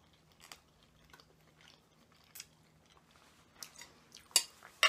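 Close-miked chewing of spaghetti and garlic bread: soft, wet mouth sounds with scattered small clicks, and two sharper clicks near the end.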